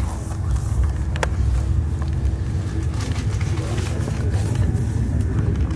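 Train running, heard from inside the carriage: a steady low rumble with a faint steady hum above it and a few light clicks.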